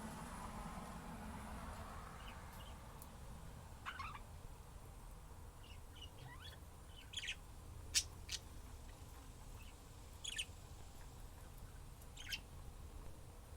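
Pet budgerigars giving short, scattered high chirps every second or two, the sharpest and loudest about eight seconds in.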